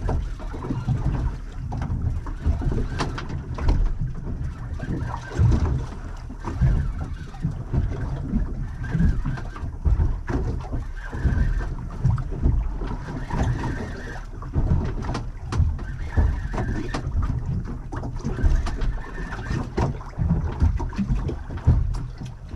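Wind buffeting the microphone and water slapping against the hull of a small boat at anchor, rising and falling unevenly, with occasional short knocks.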